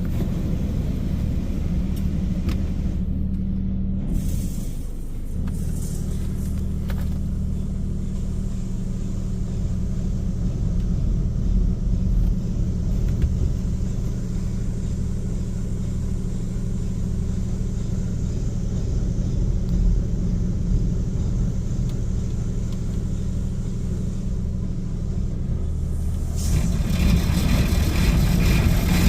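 Automatic car wash machinery running, heard from inside the car: a steady low hum from motors and pumps. Near the end a loud rush of water spray starts hitting the car.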